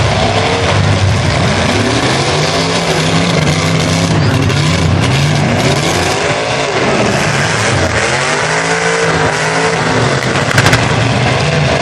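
A truck engine running hard at high throttle, its pitch swinging up and down several times as it revs and drops back. There is a brief sharp crackle about ten and a half seconds in.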